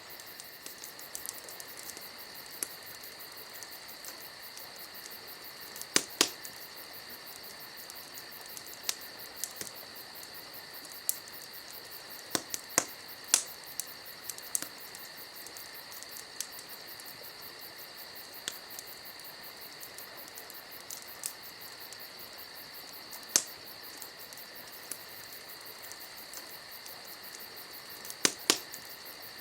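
Campfire crackling, with irregular sharp pops and snaps, some in quick pairs, over a steady chirring of crickets.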